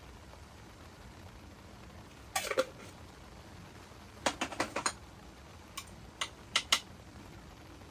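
Short sharp clinks and knocks of small hard objects against each other, in three quick clusters over a low steady background hiss.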